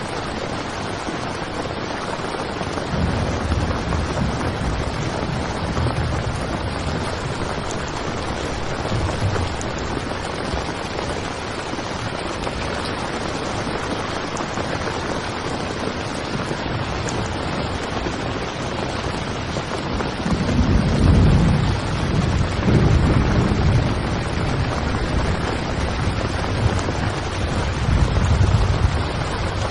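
Heavy rain drumming steadily on a tent, with deep rumbles swelling up twice, a few seconds in and again from about two-thirds of the way through.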